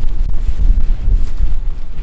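Strong gusty wind buffeting the microphone: a heavy low rumble that swells and dips unevenly.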